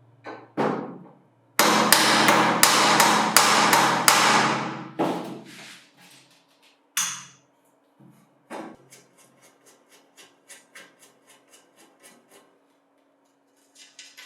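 Hammering: a run of about eight heavy blows, roughly three a second, starting about a second and a half in. After a pause comes a series of lighter taps at a similar pace.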